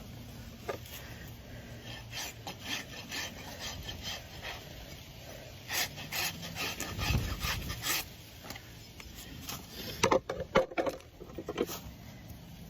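Farrier's rasp filing a horse's hoof in short repeated strokes, with a few louder knocks about ten seconds in.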